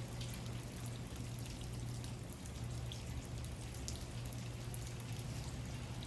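Room tone: a steady low hum under an even hiss, with faint scattered light ticks.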